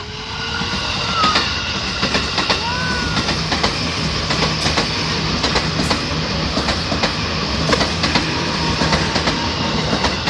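A train passing close by: a steady rumble of wheels on the rails with a run of clicks as the wheels go over the track. It builds up over the first second or so and then holds steady.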